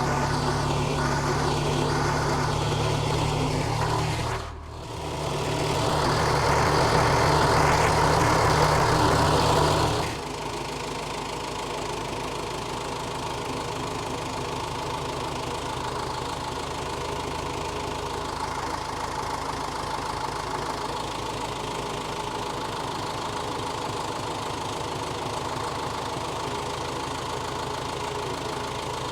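Case 1840 skid steer's diesel engine running under load on a hill climb. It dips briefly about four and a half seconds in, runs louder until about ten seconds in, then drops suddenly to a steadier, quieter running level.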